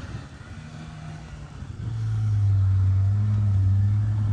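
Reliant sports car's engine running steadily under load as it drives the muddy grass trial section, the low engine note growing much louder about two seconds in and then holding.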